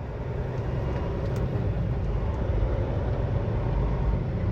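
Semi truck's diesel engine running at low speed, a steady low rumble that grows slightly louder over the few seconds.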